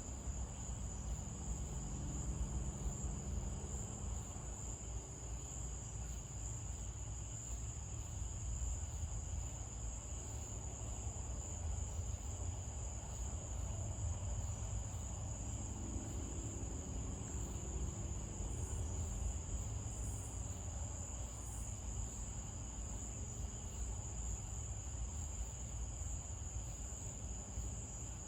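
Night insect chorus of crickets, a steady unbroken high-pitched trill, over a low steady rumble.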